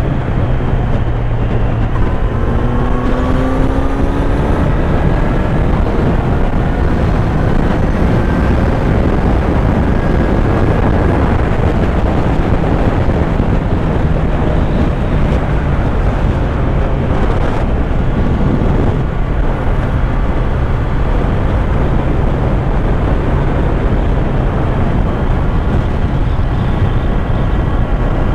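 Kawasaki Z900 inline-four motorcycle engine running under way, under a steady rush of wind noise. The engine pitch rises about two to five seconds in as the bike accelerates, then runs fairly steady.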